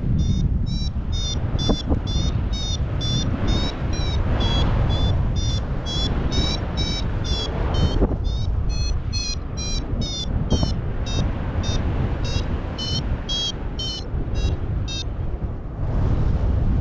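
Paragliding variometer beeping about three times a second, the climb tone that signals rising air, over a steady rush of wind on the microphone. The beeps pause briefly midway and stop near the end, when the wind noise swells.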